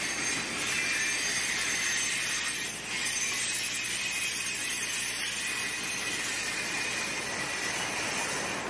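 Norfolk Southern freight train of coal hopper cars rolling past on the rails: a steady, continuous noise of steel wheels on track, with thin high tones running through it.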